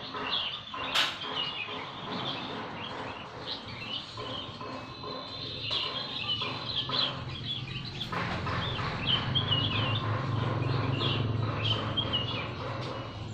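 Small birds chirping and twittering, with many short high chirps in quick succession. A sharp click comes about a second in, and a low steady hum joins from about eight seconds in.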